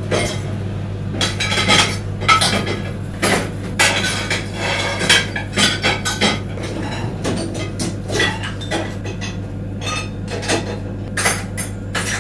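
Dishes and cutlery clinking and clattering as they are handled, in many irregular knocks, over a steady low hum.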